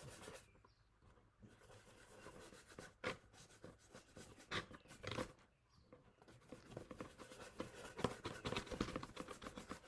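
Paintbrush brushing paint onto cardboard: a run of short, irregular scratchy strokes, pausing briefly twice.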